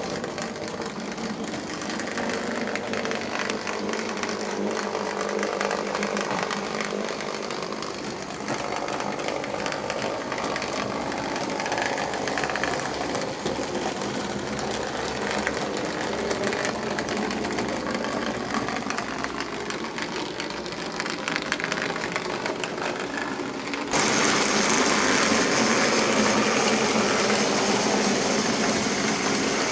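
OO gauge model trains running on the track: small electric motors whirring and wheels rattling over the rails. About three-quarters of the way through the sound turns abruptly louder and brighter, with regular clicking.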